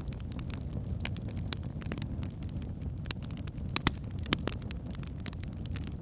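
Logs burning in a fireplace: a steady low rumble of flames under frequent sharp crackles and pops, with two louder pops about four seconds in.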